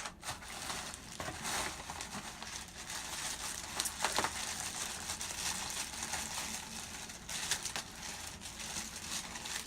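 Packaging being handled and rustled, with crumpling and crinkling throughout as items are taken out of a shipping box.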